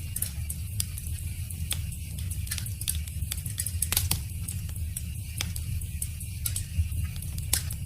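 Wood fire crackling: frequent sharp pops and snaps over a steady low rumble of the flames, with two louder pops, about four seconds in and near the end.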